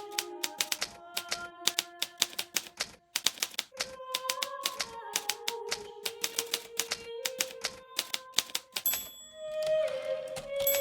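Hermes Baby portable typewriter being typed on quickly: rapid runs of sharp key strikes, with a short pause about three seconds in. Soft background music with held notes plays underneath.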